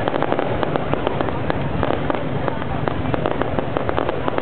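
Fireworks going off in a dense, continuous crackle of many small sharp bangs, several a second, over a steady rumble.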